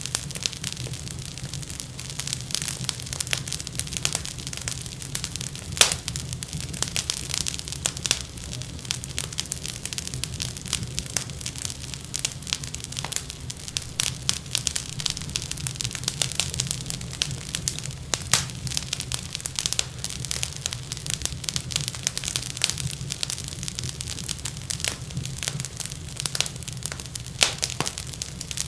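Wood fire burning in a fireplace: irregular crackles and sharp pops over a steady low rumble, with one louder pop about six seconds in.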